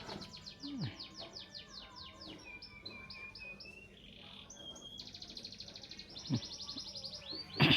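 Songbird song played for birds to answer: fast runs of short, high falling notes, alternating with steady buzzy trills. A sharp knock near the end is the loudest moment.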